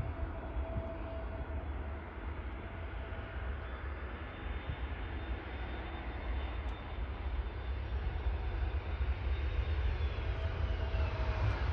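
Airbus A321neo jet engines on approach, a steady rushing noise with a deep rumble that grows slowly louder. A high engine whine falls in pitch near the end as the airliner passes.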